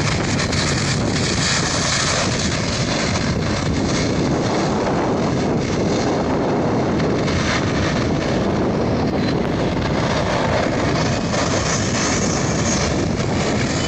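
Boeing 757-300's jet engines running with a loud, steady noise, a faint rising whine coming in near the end.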